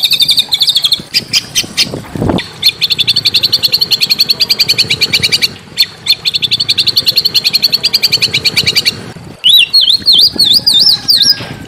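Small songbird singing fast, harsh high trills of about a dozen sharp repeated notes a second, in runs of a few seconds with short breaks; a brief low thump comes about two seconds in. Near the end a different song takes over, with quick warbling notes that swing up and down in pitch.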